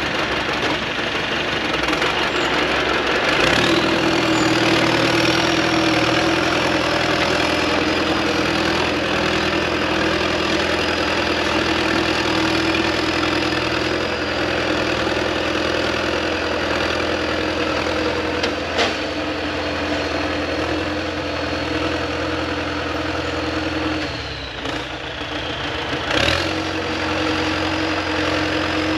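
Excavator's diesel engine running steadily, with a high whine that rises about three seconds in and then holds. A sharp click about two-thirds of the way through, and a short dip in the engine sound near the end.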